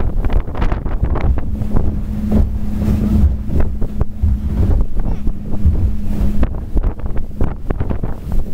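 Speedboat running fast across open water, with heavy wind buffeting the microphone. A steady engine drone stands out through the middle few seconds.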